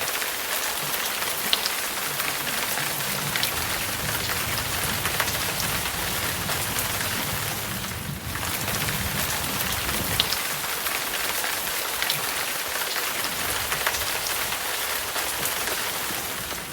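Steady rain falling on a city street, a dense hiss of rain with scattered sharp drop ticks. A low rumble of traffic runs under it for the first half or so, and the sound briefly dips about halfway through.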